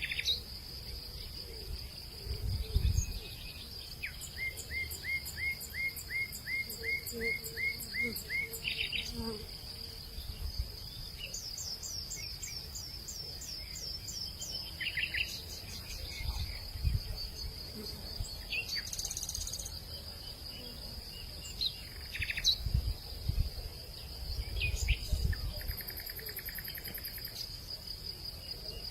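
Outdoor evening soundscape: insects keep up a steady high-pitched drone, while birds call in repeated series of short downward-slurred notes, a couple of notes a second. Low rumbles of wind swell up a few times.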